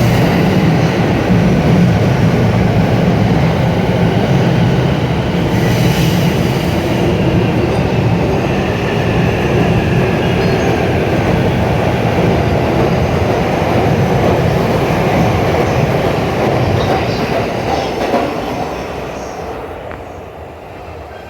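An electric commuter train running along the platform, a loud steady rumble of wheels on rail with a faint whine above it. It fades away over the last few seconds as the train pulls out of the station.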